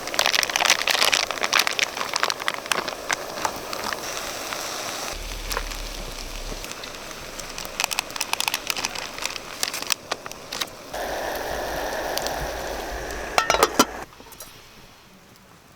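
Stir-fried sundae sizzling and crackling in a hot pan, with dense popping that is loudest in the first few seconds, then a steadier hiss that dies down near the end.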